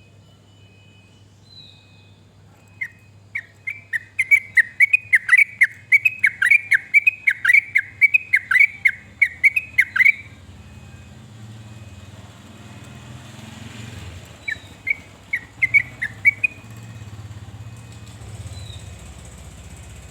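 Yellow-vented bulbul (trucukan) singing: a fast, loud run of bubbly chirping notes from about three seconds in until about ten seconds, then a short burst of notes near the end. A steady low hum runs underneath.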